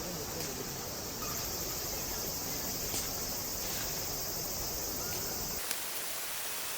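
Summer evening outdoor ambience: insects chirring steadily over an even background hiss. A little over five seconds in, the low rumble drops away and a smoother, brighter hiss takes over.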